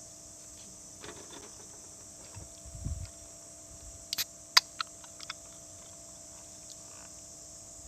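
Steady high-pitched chorus of insects, with a few sharp clicks about four to five seconds in, a soft low knock just before them, and light rustling near the start.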